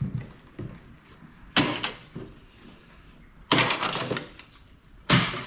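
Three clattering knocks of metal parts being handled and set down during an air conditioner teardown, about a second and a half, three and a half and five seconds in; the middle one rattles on for close to a second.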